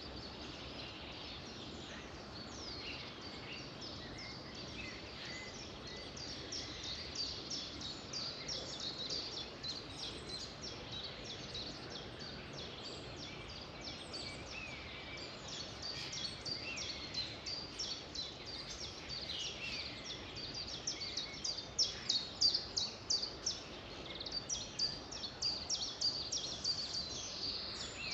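Songbirds chirping and singing over a steady background hiss, with rapid high chirps that grow denser and louder in the second half.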